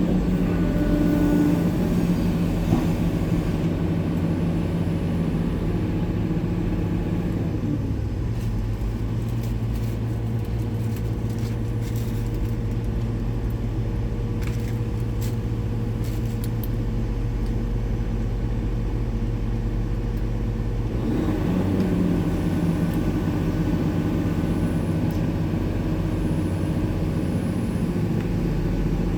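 Heavy diesel engine of a Hitachi 890 excavator running steadily under work. Its note drops lower about eight seconds in and rises again about twenty-one seconds in, with faint scattered clicks in between.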